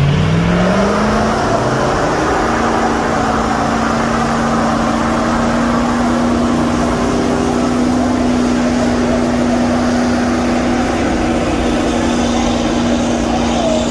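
Vehicle engine revving up over the first second or so, then held steady at high revs.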